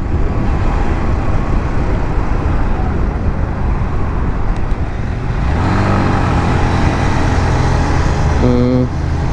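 150cc motorcycle riding at speed: a constant rush of wind and road noise, with the engine's hum rising about halfway through and then holding steady.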